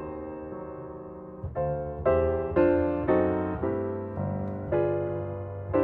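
Background piano music: a held chord fading, then a gentle series of struck notes and chords about every half second.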